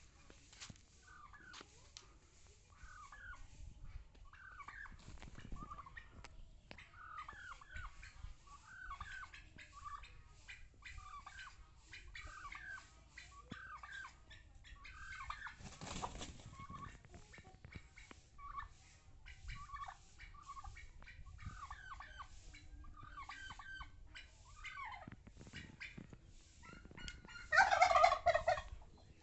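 Domestic fowl calling: a steady run of short, repeated calls, with one louder, longer call near the end.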